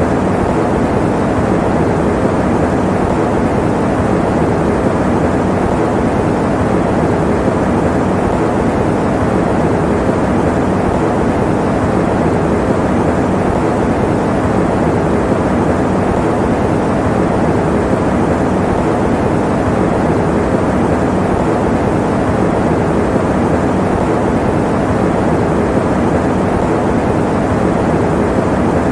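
Electric fan running steadily: an even, unbroken whooshing noise, full in the low and middle range with little hiss on top.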